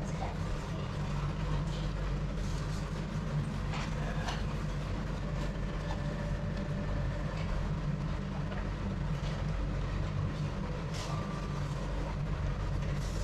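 Steady low mechanical rumble with scattered light clicks and clatters.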